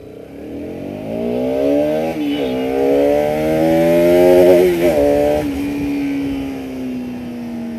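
Bajaj Pulsar RS 200's single-cylinder engine revving hard under acceleration, its note climbing and dropping at quick upshifts about two and five seconds in, then holding a steadier, slowly falling note, with wind rush.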